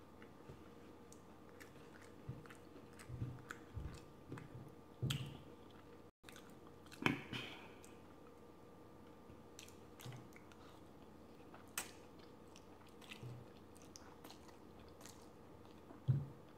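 Close-miked chewing and biting of someone eating, with scattered short clicks and soft thumps; louder mouthfuls come about five and seven seconds in and again near the end.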